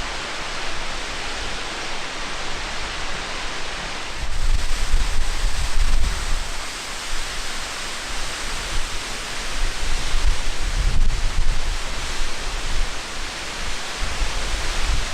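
Steady rush of a tall waterfall heard close to its base, with wind buffeting the microphone at times, about four to six seconds in and again around ten to twelve seconds in.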